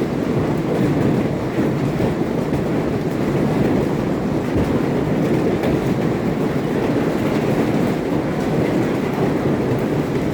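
Heavy hail coming down, hailstones striking hard surfaces in a dense, steady rush of impacts.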